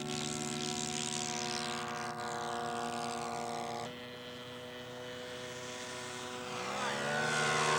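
Engine of a radio-controlled scale BE2E model biplane running steadily, then throttled back about four seconds in for the landing approach. In the last second or so it revs up again with rising pitch as the model is opened up to go around.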